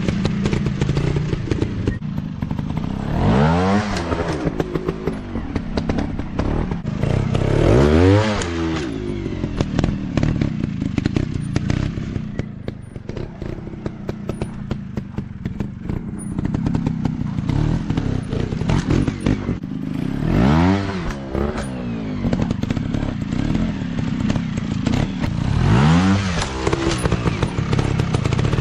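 Dirt bike engines revving hard four times, each a sharp rise and fall in pitch, over a steady running engine sound. Many short knocks and clatter run throughout, as the bikes ride over rough ground.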